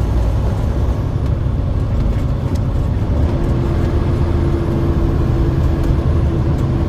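Semi-truck running, a steady low rumble; a steady higher hum joins it about three seconds in.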